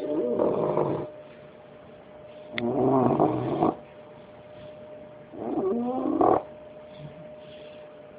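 Five-month-old bulldog puppy snoring: three long snores about two and a half seconds apart, each lasting about a second with a wavering pitched tone.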